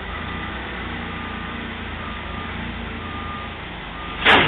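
A heavy vehicle's engine running steadily while its backup alarm beeps about once a second, as the baler is eased upright. A short, loud, sharp noise cuts in near the end.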